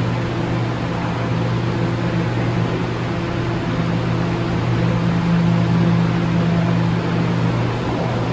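Steady mechanical hum with a constant hiss in a subway station, a low droning tone with fainter steady tones above it and no change in level.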